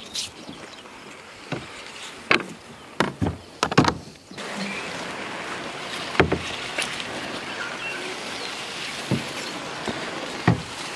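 Knocks and clunks against a kayak's hull as gear or a paddle is moved in the boat, about ten in all and closest together between two and four seconds in. From about four seconds in a steady rushing noise runs under them.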